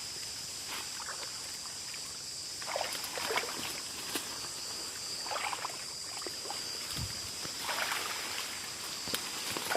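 Insects droning in two steady high-pitched tones, with a rustling, splashy footstep through wet ground or vegetation about every two to three seconds.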